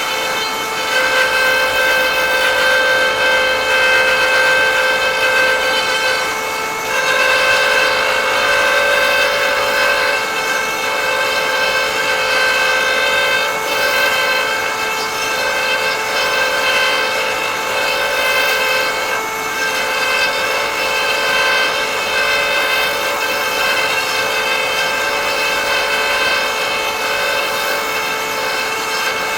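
Threading jig's high-speed cutter motor running steadily with a high whine, the cutter cutting threads into a wooden tenon turning on the lathe; the wood is a poor, brittle piece that chips badly under the cut.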